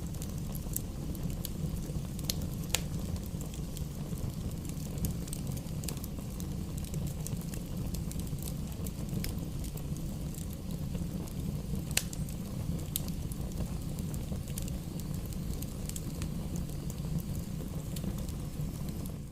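Fireplace fire burning: a steady low rumble of flames with scattered sharp crackles and pops. The loudest pops come about three seconds and twelve seconds in.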